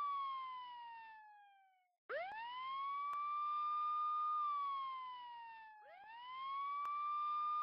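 Police siren wailing. Each wail rises quickly, holds its high pitch, then slides slowly down, repeating about every four seconds. One wail fades out and, after a short break about two seconds in, the cycle starts again.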